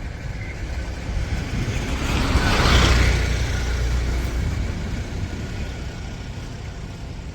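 A motor vehicle passing by on the road, its engine rumble and tyre noise swelling to a peak about three seconds in and then fading away.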